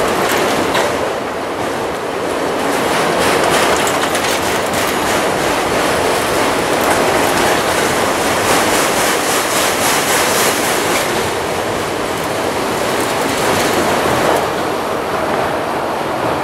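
Norfolk Southern freight train of autorack cars rolling past: steady noise of steel wheels on rail, with repeated clacks over the rail joints.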